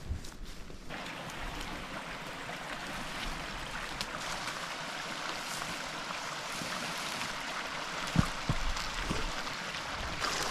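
Steady rush of a river's running water, which comes in suddenly about a second in, with a couple of low thuds near the end.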